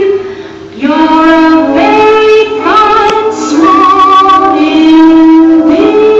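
Music with a high voice singing a slow melody in long held notes, stepping from note to note, with a brief softer gap about half a second in.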